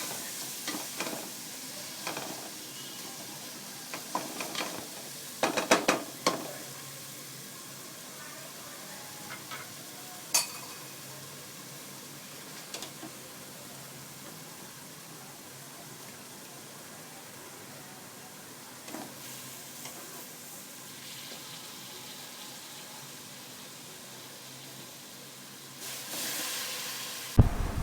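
Onion-tomato masala sizzling steadily in oil in a pan, with a spoon scraping and knocking against the pan as it is stirred, the knocks clustered in the first six seconds and once more about ten seconds in.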